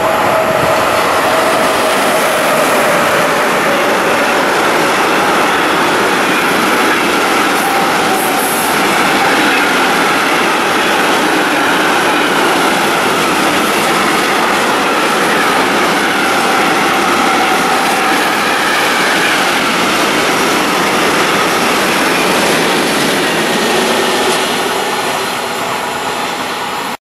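Intermodal freight train, hauled by two E193 Vectron electric locomotives, passing at speed: a loud, steady roar of wheels on rail with thin whining tones through it. It eases off slightly near the end as the last wagons go by.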